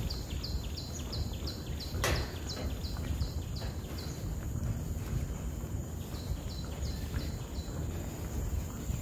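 Tropical forest ambience: a bird repeats short high chirps, about three a second, in two runs, over a steady high insect whine and a low rumble. A single sharp knock comes about two seconds in.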